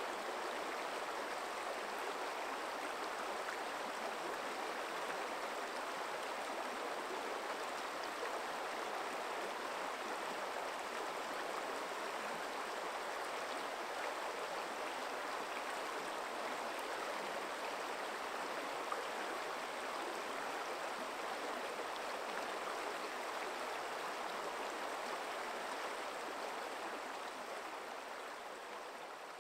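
A forest stream running steadily, an even rush of flowing water that fades out near the end.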